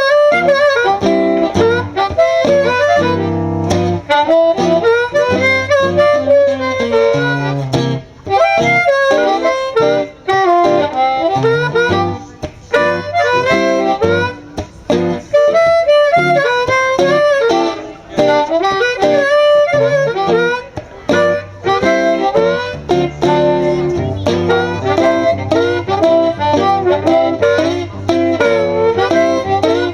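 Blues harmonica solo with bending, wailing notes over a rhythmic guitar accompaniment, played live as an instrumental break.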